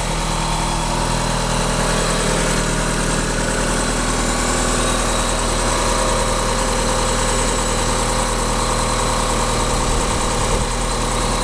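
Eagle Talon AWD's turbocharged 2.0-litre 4G63 inline-four, fitted with an HX35 turbo, idling steadily on its first start-up after a rebuild.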